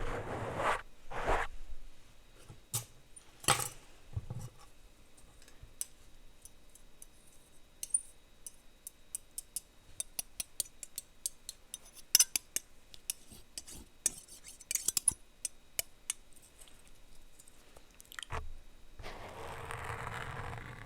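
Plastic utensils rubbed, tapped and clicked against a microphone close up. There are a few sweeping strokes at the start, many quick light clicks and taps in the middle, and a longer sweeping stroke near the end.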